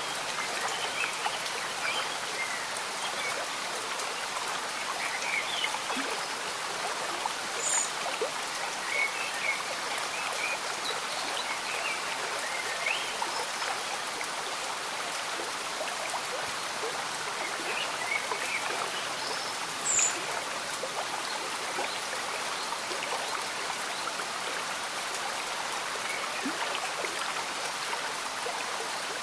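Slow-moving stream bubbling and trickling steadily, with gentle rain falling. Two brief high plinks stand out, one about eight seconds in and a louder one about twenty seconds in.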